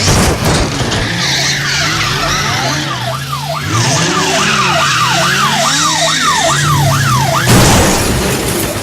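Sound-effects mix of a car crash: an engine hum and tyre-skid noise under a siren that sweeps up and down about twice a second. A loud burst of noise comes near the end.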